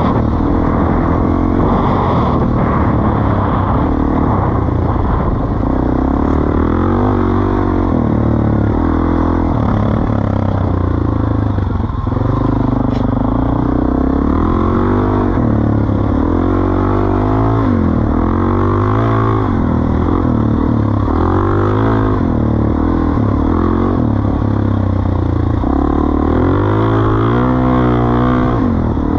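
Suzuki DR-Z400E single-cylinder four-stroke engine running through a Pro Circuit T-4 exhaust, its engine speed rising and falling again and again.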